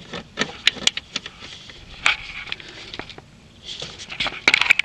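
A run of irregular sharp clicks and light knocks, with a denser cluster near the end.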